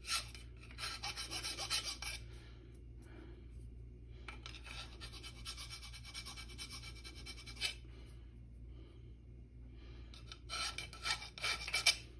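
Abrasive rubbing strokes against the edge of a metal hand plane's sole, working out a machining notch and easing the sharp edge. The strokes come in three bouts: one at the start, a longer one in the middle, and a short one near the end.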